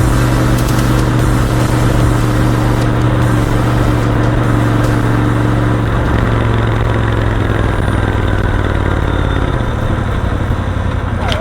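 Royal Enfield Continental GT 650's 648 cc parallel-twin engine running steadily on the move. The engine note softens and drops in the last second or two.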